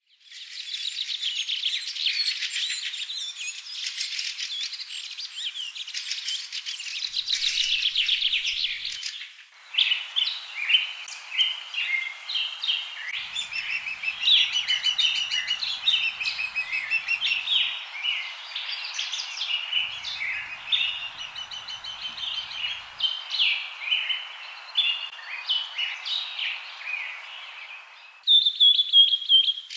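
Birds chirping and calling: a dense run of rapid chirps, then after an abrupt change about ten seconds in, many short separate chirps over a faint hiss, and a louder high call near the end.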